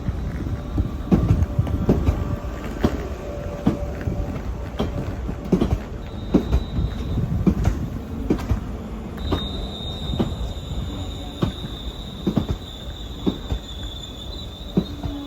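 A train rolling slowly through a station, its wheels clacking over rail joints and points, the knocks spreading further apart as it slows. A high steady wheel or brake squeal sounds briefly, then sets in about nine seconds in and holds.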